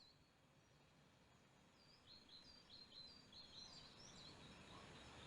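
Faint birdsong: small birds chirping in quick repeated short calls over a soft hiss that slowly grows louder.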